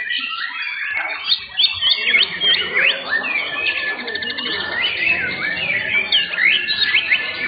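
Many caged young white-rumped shamas (murai batu) singing together, a dense overlapping tangle of loud whistles, rising and falling glides, and chirps. A fast rattling trill comes about three seconds in.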